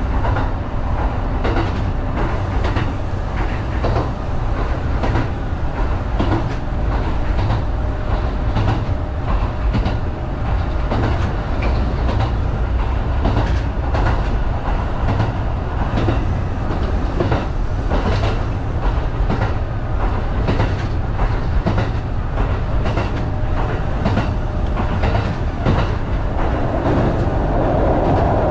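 Kintetsu 1010-series electric train running, heard from on board: a steady low rumble with repeated clicking of the wheels over rail joints, and a louder hiss building near the end.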